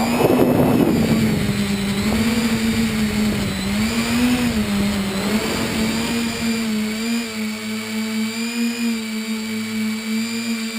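A tricopter's electric motors and propellers whining in flight, the pitch rising and falling as the throttle changes. There is a rough rushing noise over the first second or so, and the tone settles and steadies after about seven seconds.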